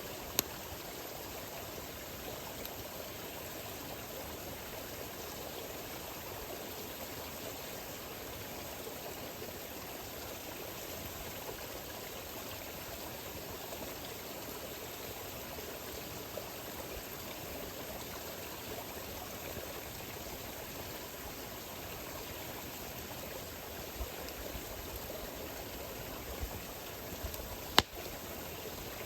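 Wood campfire burning with a steady hiss. There is a sharp pop just after the start, a few small crackles later, and a louder pop near the end.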